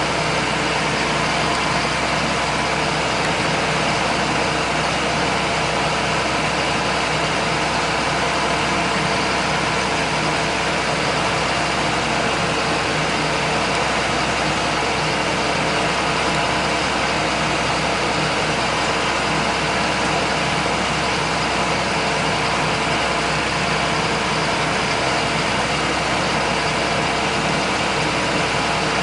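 John Deere 8100 tractor's six-cylinder diesel engine running steadily at an even speed while travelling.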